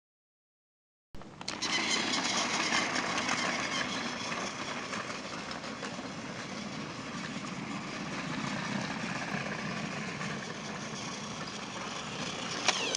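Battery-powered Thomas & Friends Trackmaster toy train running on plastic track: a steady motor whirr with rattling clicks, starting about a second in after a brief silence.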